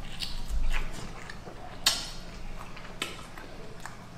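Close-miked eating sounds: chewing and small wet mouth clicks while eating fried chicken and fried rice. Scattered light ticks run through it, with one sharper click about two seconds in.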